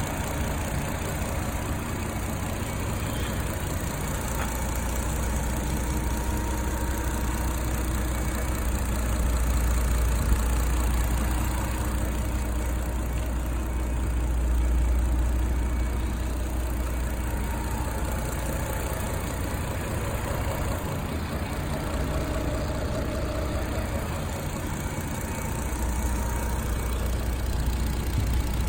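Toyota Supra Twin Turbo's 3.0-litre twin-turbo inline-six (2JZ-GTE) idling steadily, a continuous low rumble that swells slightly now and then.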